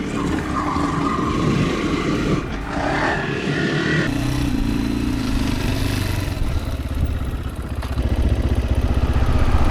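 Yamaha WR155R's single-cylinder engine running as the dirt bike rides over a rough trail, with the rattle and clatter of the bike over the ground. The engine gets louder near the end.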